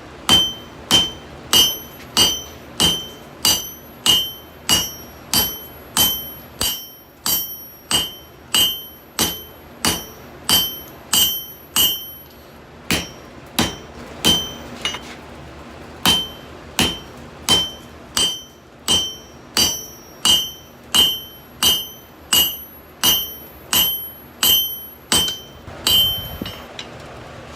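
Hand hammer striking a hot steel canister on an anvil in a steady rhythm, about three blows every two seconds, each with a bright ringing ping: forge-welding the canister Damascus billet. The hammering pauses briefly around the middle and then picks up again.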